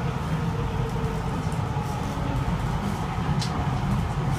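Steady rumble of a Kawasaki & CSR Sifang C151A metro train running on the track, heard from inside the car. A brief hiss about three and a half seconds in.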